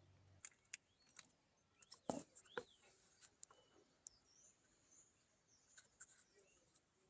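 Faint, scattered chirps and small clicks from pet birds in their cage, the sharpest two coming about two seconds in.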